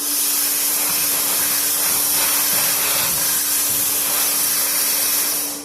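Bestarc plasma cutter torch firing: a loud, steady hiss of air and arc that starts suddenly and cuts off after about five and a half seconds.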